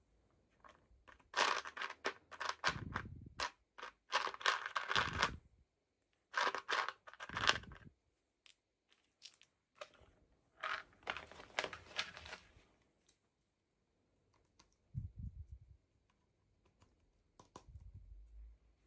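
Toy packaging crinkling and tearing in several bursts of a second or two as a doll is unboxed by hand, with a few low, dull handling thumps near the end.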